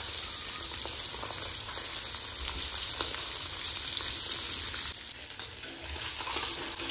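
Boiled eggs and potato pieces sizzling in hot oil in a kadhai, a steady spitting hiss. The sizzle drops away for about a second, about five seconds in, then comes back.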